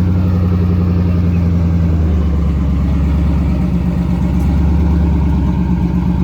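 Car engine idling loudly close by, steady, its pitch dipping slightly about two seconds in.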